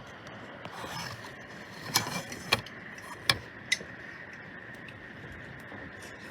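Rain falling steadily, with a few sharp loud taps about two to four seconds in.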